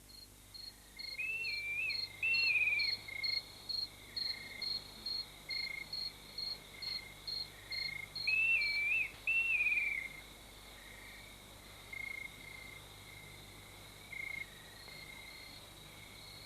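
Savanna wildlife ambience: a regular run of high chirps, about two to three a second, with two pairs of louder warbling calls. The chirping stops about ten seconds in, leaving sparser, quieter notes.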